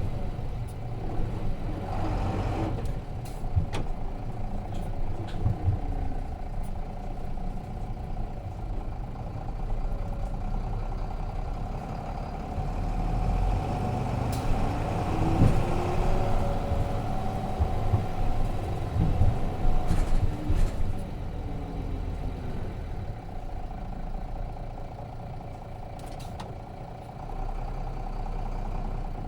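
Nissan Diesel FE6 diesel engine of a city bus, heard from inside the cabin while it drives. The engine note rises and falls several times, and there are occasional short knocks and rattles from the body.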